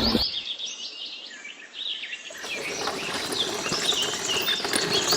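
Small birds chirping repeatedly over an outdoor background hiss that gets louder about halfway through.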